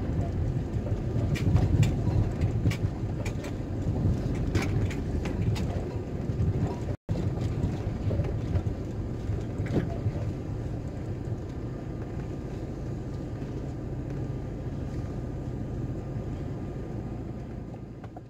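Camper van driving, with a steady low engine and road rumble and scattered rattles and clicks. The sound cuts out for an instant about seven seconds in and fades away near the end.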